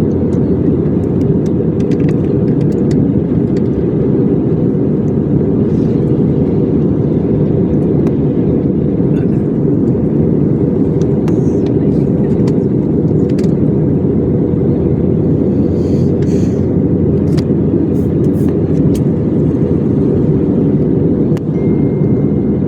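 Steady low rumble of a moving car's road and wind noise, with no engine note standing out, unchanging throughout. A few faint ticks are scattered through it.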